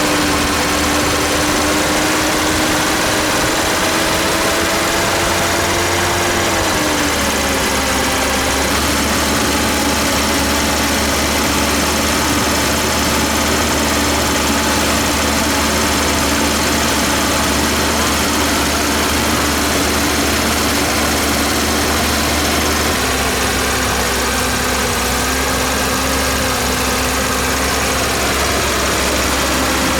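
A motor running steadily over a hiss. Its pitch drops slightly about seven seconds in and shifts again about two-thirds of the way through.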